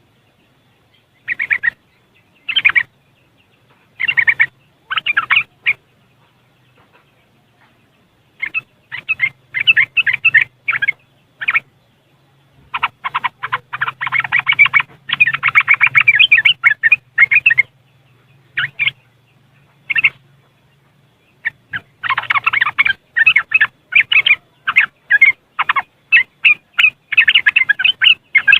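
Yellow-vented bulbul (trucuk) giving its rapid chattering 'riwikan' twitter, quick notes in bursts: a few short bursts at first, then long, busy runs about halfway through and again near the end.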